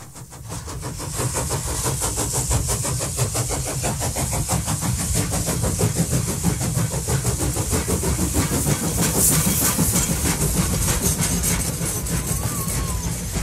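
Train running sound: a rapid, even clatter over a steady rumble with a hiss on top, fading in over the first second.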